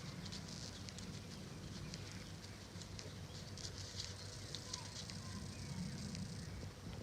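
A dog walking, its claws making faint, irregular clicks on a hard floor, over a steady low hum.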